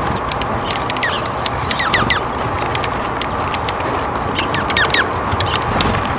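Small birds calling in short, quick falling chirps, several in a row around two seconds in and again near the end, with scattered sharp ticks, over a steady outdoor background hiss.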